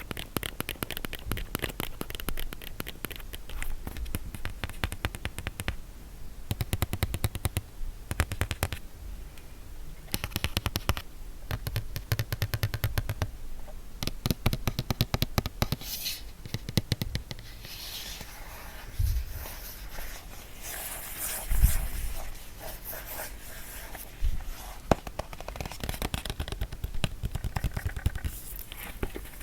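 A box being tapped rapidly with the fingers, in dense runs of quick taps, with some scratching and rubbing on its surface about halfway through and a few heavier knocks.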